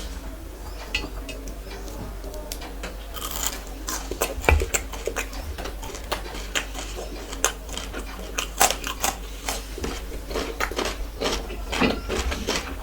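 Dishes and cutlery clinking: irregular taps and clicks of spoons against plates and bowls as food is handled at the start of a meal, over a steady low hum.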